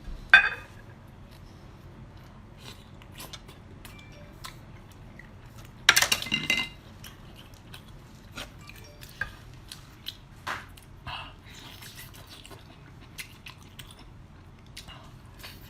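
Close-up eating sounds: chewing and biting on seafood, with scattered clicks and clinks of shells or utensils and a couple of louder bursts, one at the very start and one about six seconds in.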